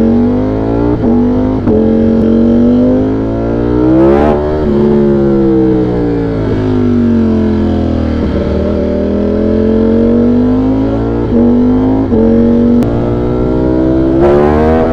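Ducati Streetfighter V4's V4 engine on the move: its note climbs to a peak about four seconds in, falls away as the bike slows, then climbs again toward the end.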